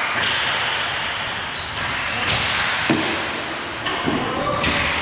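Game sounds of an indoor hockey match: thuds and a sharp knock echoing in a large hall, with indistinct players' voices.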